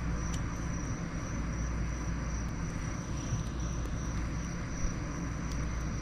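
Campfire burning with a few faint crackles over a steady low rumble, and crickets trilling steadily in the background.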